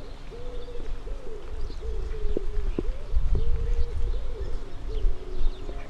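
A pigeon cooing: a run of soft, low, repeated coo notes, each about half a second long, over a low steady rumble, with faint chirps from other birds.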